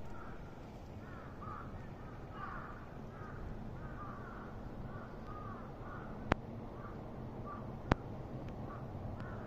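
Birds calling repeatedly in quick, short calls over a steady low background rumble, with two sharp clicks about six and eight seconds in.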